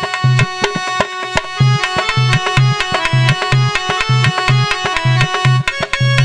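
Instrumental passage of a Hindi devotional bhajan: a melody instrument playing quick, steady-pitched notes over a regular hand-drum rhythm with deep bass strokes.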